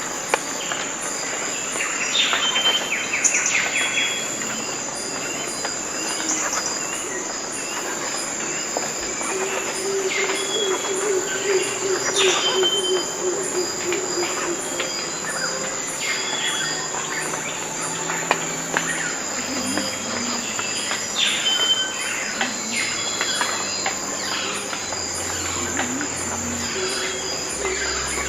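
Tropical forest ambience: a steady, high insect drone under many scattered bird calls, short whistles and falling notes, with a lower trill about a third of the way in.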